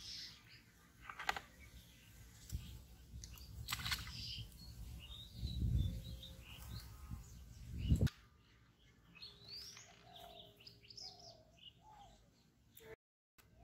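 Small birds chirping in short, high calls and quick rising notes, with a low rumble underneath that swells in the first half and stops abruptly about eight seconds in.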